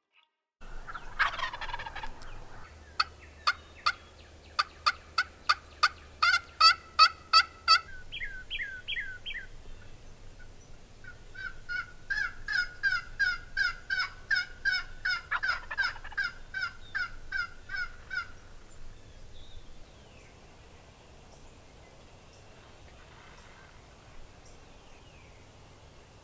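Turkey yelping. A falling call comes about a second in, then a run of sharp yelps that quickens, a short higher series, and after a pause another run of about a dozen yelps. The last few seconds are quiet.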